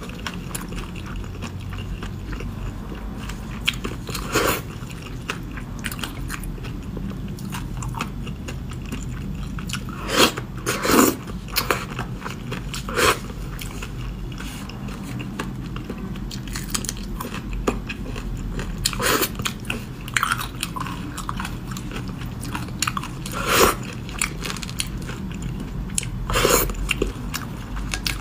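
Close-miked chewing and wet mouth noises of a person eating braised fish, with a short, sharp smack every few seconds over a low steady hum.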